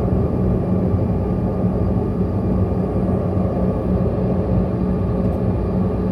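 CRJ200's rear-mounted turbofan engines running steadily, heard inside the cabin: a loud, even rumble with a steady hum.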